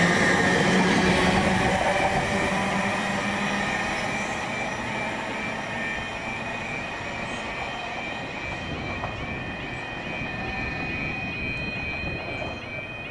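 A train passing through at speed, its noise fading as it draws away. From about ten seconds in, a high steady ringing tone with a quick repeating warble sets in.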